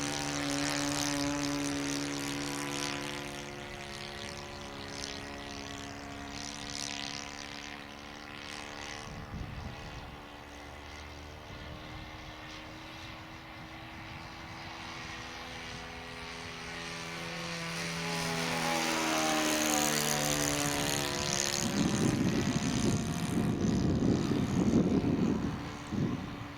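Saito 40 four-stroke glow engine of a radio-control model plane in flight, its propeller drone rising and falling in pitch and loudness as the plane manoeuvres, loudest in the last third as it comes close. A rough low rumble is mixed in near the end.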